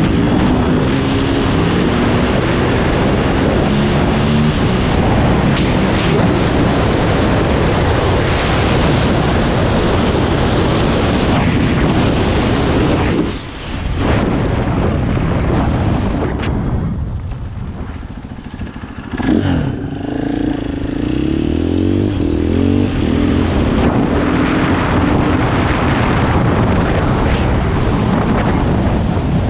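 KTM 500 EXC single-cylinder four-stroke dirt bike under way, its engine pitch rising and falling, under a heavy rush of wind on the microphone. The sound drops briefly about 13 seconds in and again for a couple of seconds around 17 to 19 seconds in.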